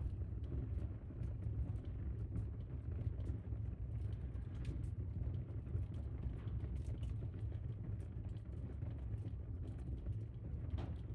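Wood fire burning in a fireplace: a steady low rumble with scattered faint crackles and pops, one sharper pop near the end.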